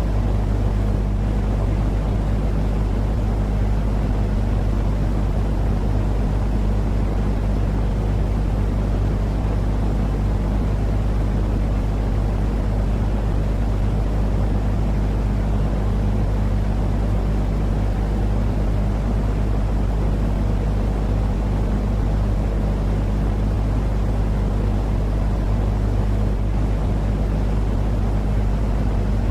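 Steady, unbroken low rumbling noise with a low hum underneath, used as a soothing sleep noise for babies.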